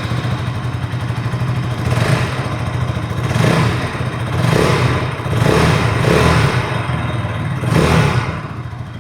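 KTM Duke 160's 164 cc single-cylinder liquid-cooled engine idling through its underbelly exhaust and revved with several short throttle blips, just after being started.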